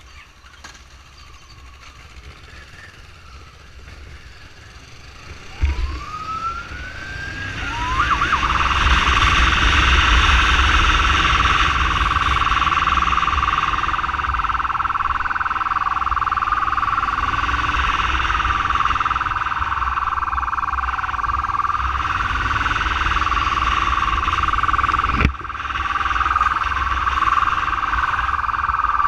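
Emergency siren on a SAMU motorcycle ambulance. After a thump it winds up in pitch about seven seconds in, then sounds loudly and steadily over a low engine-and-wind rumble, broken by a short click near the end.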